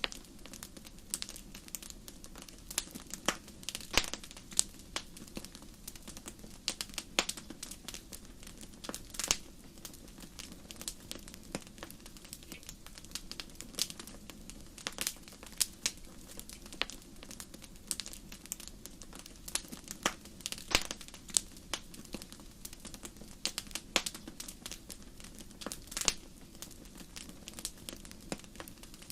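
Wood fire crackling in a fireplace: irregular sharp pops and snaps, some louder than others, over a steady low hiss of burning.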